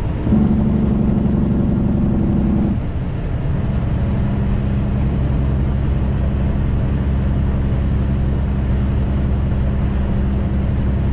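Straight-piped truck's diesel engine running steadily under way. Its note sits higher at first, then drops about three seconds in and holds steady at a lower pitch.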